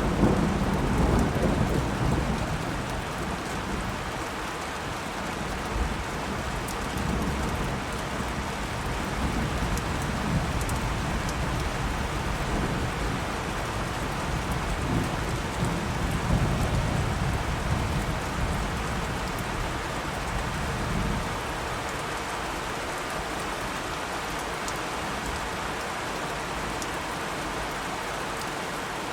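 Thunderstorm: steady rain with low thunder rumbling in long rolls, loudest right at the start and dying away about two-thirds of the way through, leaving rain alone.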